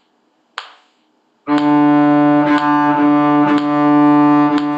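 A single soft tap, then a cello comes in about one and a half seconds in, bowing one steady low note and re-bowing it roughly once a second, as the introduction before the tune.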